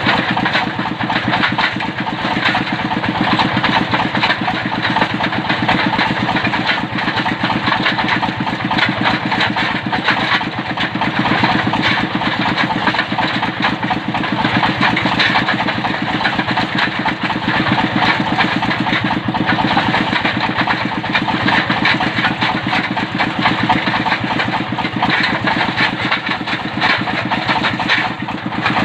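Diesel engine of a water-well drilling machine running steadily at an even speed.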